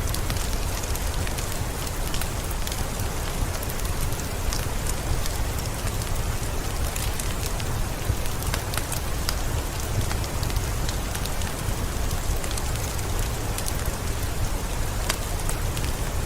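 Heavy rain falling steadily, with many sharp drop taps close by over a constant low rumble.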